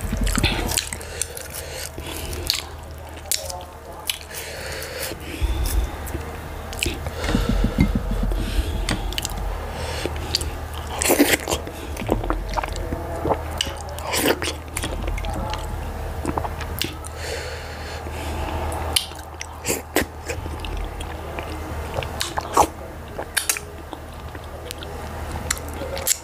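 Close-miked chewing and wet mouth sounds of someone eating fufu with achi soup by hand, full of irregular sharp smacks and clicks.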